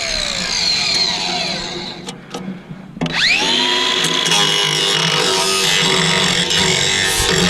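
Angle grinder winding down with a falling whine, then, after a short pause, started again about three seconds in and spinning up to a steady high whine at full speed.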